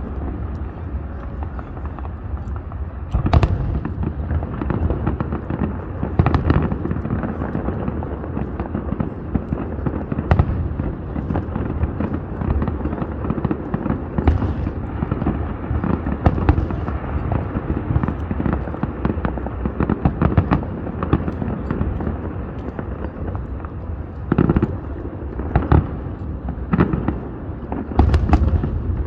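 Fireworks display: shells bursting in a steady run of booms, with a continuous low rumble between them. Louder single bangs come every few seconds, with a dense cluster near the end.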